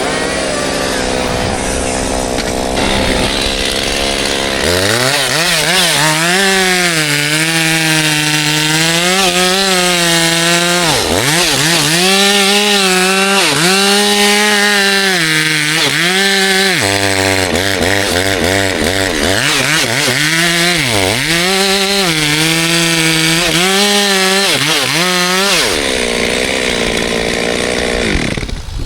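Two-stroke chainsaw cutting wood at full throttle, its high engine note dipping sharply several times and climbing back as it loads up in the cut. About five seconds in it revs up from a lower, steadier running, and it drops away near the end.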